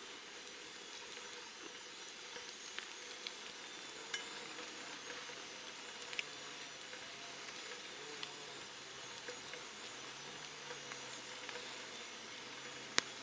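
Campfire crackling over a steady hiss, with scattered sharp pops; the loudest pop comes near the end.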